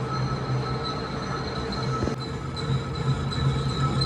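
Diesel truck engine running at a steady speed, with a constant high-pitched whine over its low running note.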